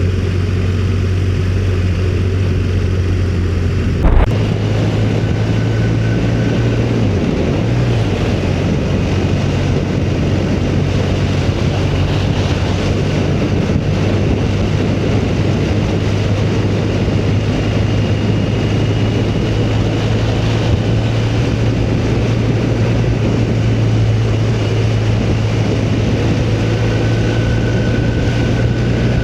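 Motorcycle engine running steadily at cruising speed under wind rush on the microphone, with a single sharp knock about four seconds in, after which the wind noise is louder, and a brief dip in the engine note around seven seconds.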